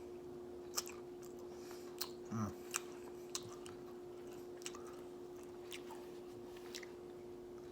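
A person chewing a mouthful of M&M Blizzard ice cream with candy pieces in it, with scattered small mouth clicks and smacks and a brief hum of the voice about two and a half seconds in. A steady hum runs underneath.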